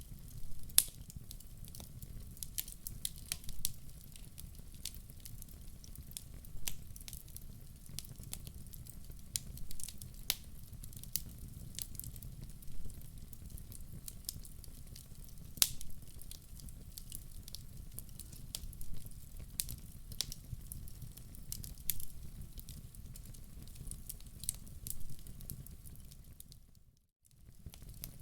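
Wood fire burning in a fireplace: irregular sharp crackles and pops over a steady low rumble of the flames. The sound drops out briefly near the end, then resumes.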